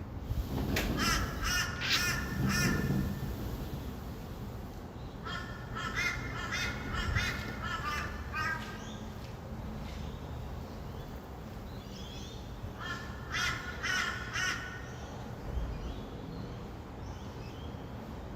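Rainbow lorikeets giving harsh, rapid screeching calls in three bursts of a few seconds each, about a second in, around the middle of the first half, and again later. A steady low hum of distant traffic runs underneath.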